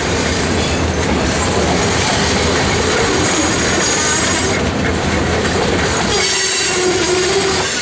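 Freight train rolling past close by, wheels squealing against the rails in a wavering tone over the steady rumble and clatter of the cars; the low rumble thins about six seconds in.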